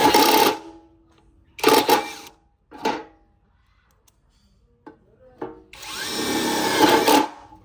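Workfix 550 Nm cordless impact wrench driving screws in its auto-stop screwdriving mode: the motor spins up with a rising whine and cuts off about half a second in, gives two short blips, then makes a second run of about a second and a half that stops by itself once the screw is down.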